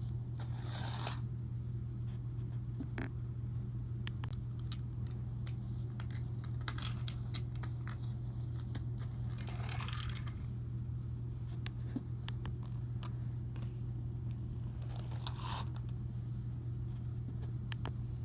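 A steady low hum with scattered small clicks and three brief scraping rustles, about a second in, around ten seconds and near fifteen seconds.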